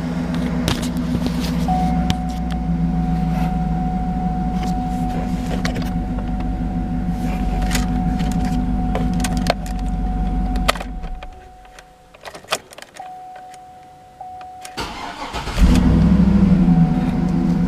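2010 GMC Yukon Denali's 6.2 L L94 V8 idling steadily. About eleven seconds in, it is switched off. A few seconds later it is cranked and restarts with a sudden rise in level, then settles back into an idle.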